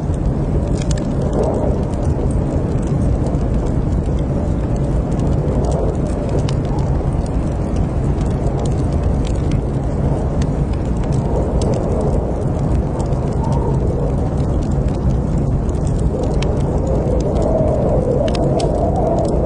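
Fire burning in a fireplace: a steady low rush of flames with scattered sharp crackles and pops.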